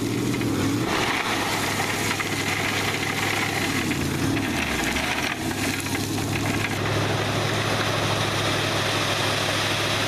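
Engine of a 50- to 60-year-old dump truck running steadily as the truck pulls slowly forward in first gear, with a brief dip in pitch about halfway through.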